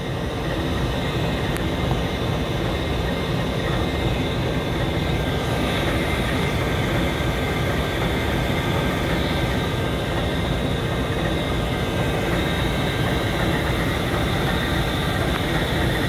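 Diesel locomotive idling: a steady low rumble with a faint, steady high whine above it.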